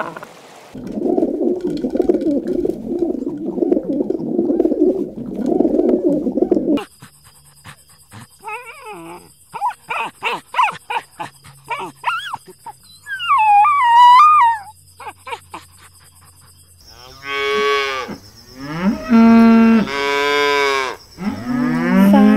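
Cattle mooing: several loud, drawn-out moos with bending pitch over the last five seconds or so. Before them comes a loud, dense jumble of animal sound, then a quieter stretch of short clicks and squawky calls.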